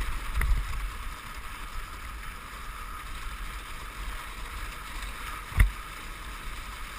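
Dogsled runners hiss steadily over a snow trail, with a low rumble underneath. A single sharp knock comes about five and a half seconds in.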